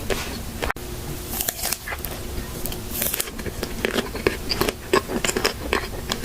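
Close-miked ASMR eating and mouth sounds: a scatter of irregular wet clicks and smacks with short hissy bursts, broken by a brief gap a little under a second in.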